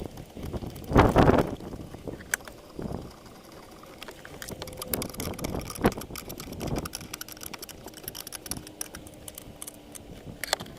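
Hand-work noises from tools and parts during a 12 V auxiliary battery swap: a loud knock about a second in, then scattered sharp metallic clicks and a few duller clunks.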